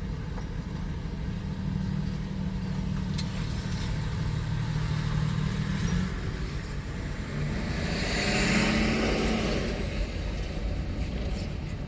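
A steady low engine rumble, then a vehicle driving past that swells and fades from about eight to ten seconds in.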